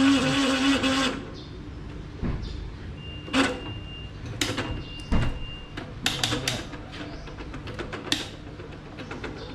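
Hatari electric fan's motor running with a loud, steady hum, stopping suddenly about a second in. A series of sharp clicks and knocks follows. The fan is noisy and spins weakly, which the owner suspects comes from worn motor bushings.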